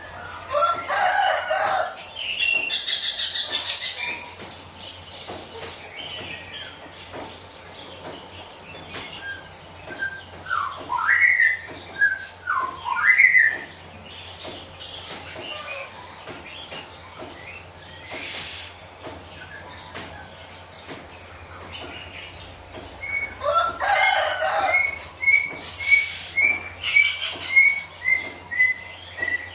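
Oriental magpie-robin bathing, with wing flapping and bird calls: whistled rising and falling notes in the middle, and a run of evenly repeated chirps, about two or three a second, near the end. A harsher call sounds twice, once near the start and again about 24 seconds in.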